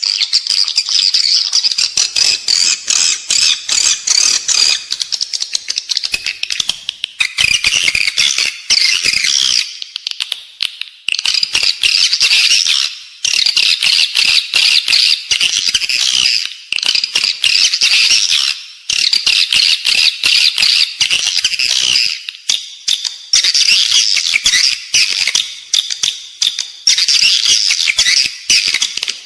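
Edible-nest swiftlets twittering: a dense, loud chorus of rapid high chirps in runs of a few seconds with short breaks between them. This is the in-house call played in swiftlet farming to draw the birds in to roost and nest.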